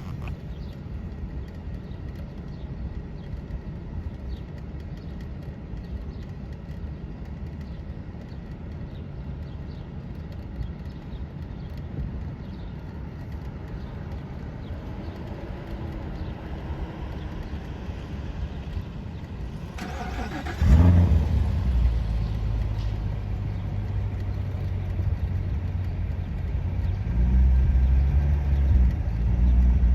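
A steady low rumble, then a deep boat horn blast that starts suddenly about 21 seconds in and holds, growing louder again near the end.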